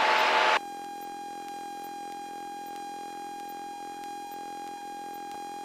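Loud cabin noise cuts off abruptly about half a second in, leaving a single steady electronic tone with overtones that holds unchanged.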